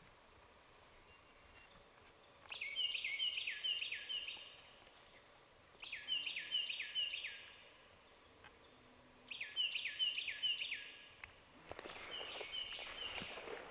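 Hand-worked turkey call run in four yelping sequences, each a string of five or six notes that break sharply from high to low, used to strike up a gobbler. Rustling comes in near the end.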